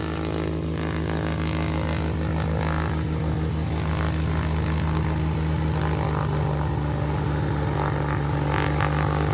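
Small propeller airplane's piston engine running steadily as it taxis, growing slightly louder as it approaches.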